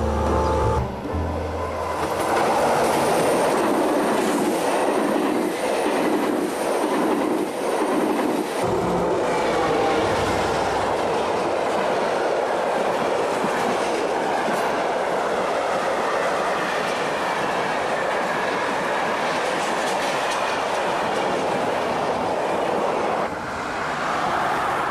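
Freight train of tall covered wagons passing close by, wheels clattering steadily on the rails.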